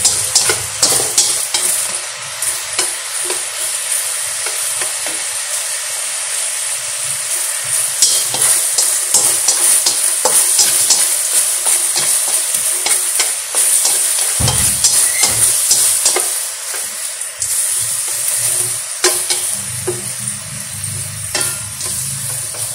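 Meat-stuffed squid sizzling in a thick fish-sauce and garlic glaze in a wok, the sauce reducing and soaking into the squid. Wooden chopsticks click and scrape against the pan as the pieces are turned, many times over.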